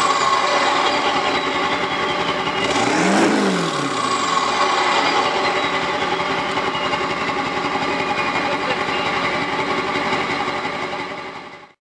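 Straight-piped 7.3 Powerstroke V8 turbo diesel exhausting through 6-inch stacks, idling loudly, with one quick rev about three seconds in that drops back to idle and a high whistle falling away after it. The sound cuts off abruptly near the end.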